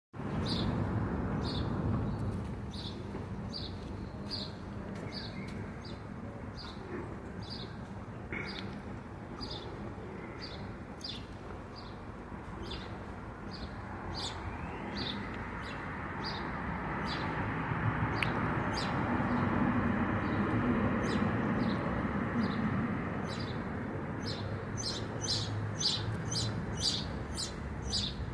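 A small bird chirping over and over, short high chirps about once a second that come faster near the end, over a steady low background rumble that swells in the middle.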